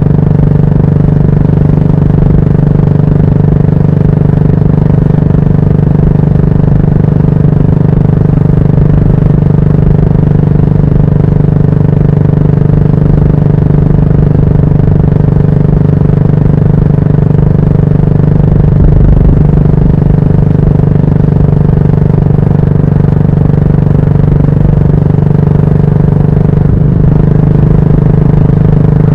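Yamaha SR400's air-cooled single-cylinder engine running steadily through a Goods tapered-cone aftermarket muffler, with a small change in pitch near the end.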